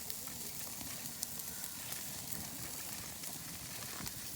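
Shellfish sizzling with a steady hiss on a grill net over an open wood fire, with a few sharp crackles from the burning wood.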